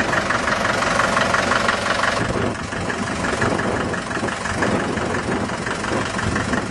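1954 Farmall Super MTA's four-cylinder diesel engine running steadily with an even, rapid beat. About two seconds in, the sharper upper part of the sound fades and the running turns duller.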